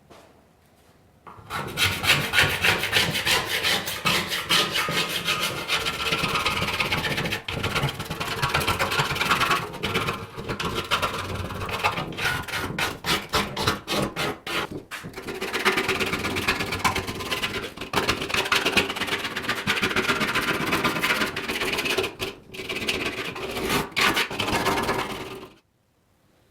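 Hand abrading of a body part, rapid rasping back-and-forth strokes with a few short pauses, stopping shortly before the end.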